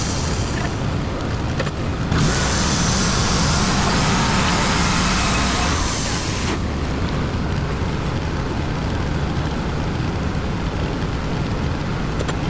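WoodMizer LT35 band sawmill running steadily, its gas engine and blade sawing a hemlock log. The high hiss cuts in and out abruptly about two seconds in and again about six and a half seconds in.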